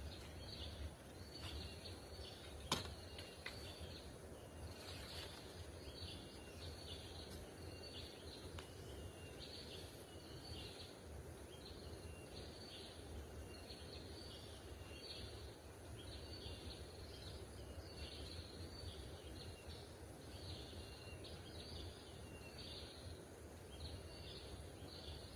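Outdoor ambience: high chirping calls repeating about once a second over a steady low rumble, with one sharp click about three seconds in.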